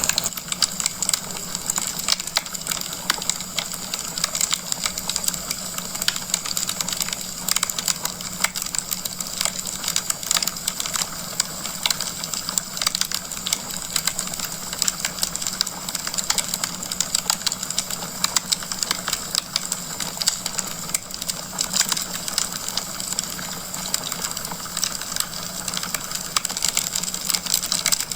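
Wood fire crackling in a fireplace: a dense, irregular run of small pops and snaps over a steady hiss, with a faint low hum underneath.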